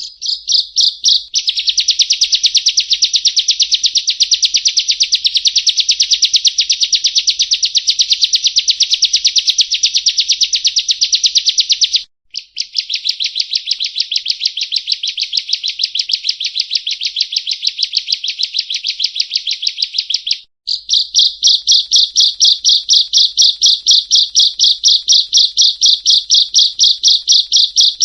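Bar-winged prinia (ciblek kristal) singing long, rapid trills of evenly repeated high notes, the fast-firing 'nembak' style. The song breaks off briefly twice, about 12 seconds and about 20 seconds in.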